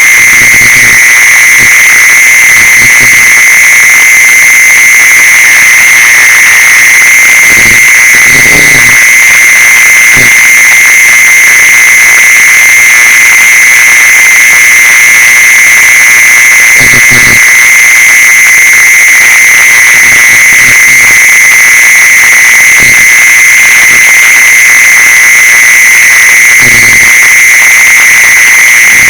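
Continuous high-pitched insect song from the singing insect the Thais call 'jeeson', one steady shrill tone with no pauses and no change in pitch. A few faint low thumps come through underneath.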